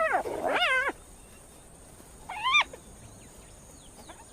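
Spotted hyena calls: short, high-pitched calls that rise and fall in pitch, three in quick succession, the last about two seconds after the second.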